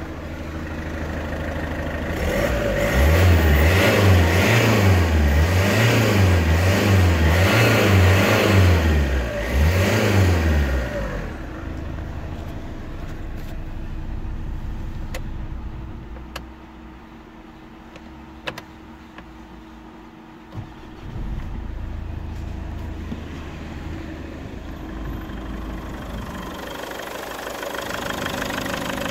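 Mazda 5's 2.0-litre RF7J four-cylinder turbodiesel blipped up and down about seven times in quick succession, then dropping back to a steady idle. The idle grows quieter for a few seconds past the middle, with a few sharp clicks, and is louder again near the end.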